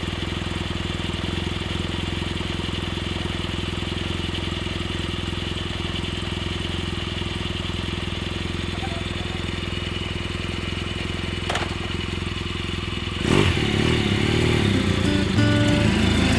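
Motorcycle engine idling steadily just after starting up. Near the end a louder sound with wavering pitches comes in over it.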